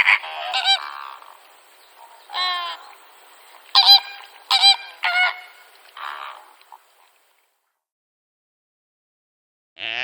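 A series of short, pitched bird calls, about eight of them in the first seven seconds, some in quick pairs. They are followed by silence, and a different, longer animal call starts right at the end.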